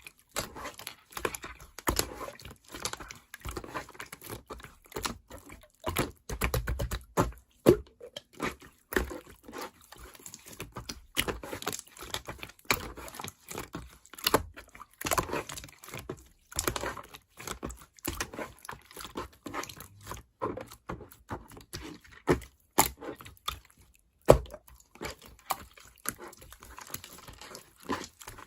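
Hands squishing, poking and stretching slime, an irregular crackle of many small sticky pops and clicks.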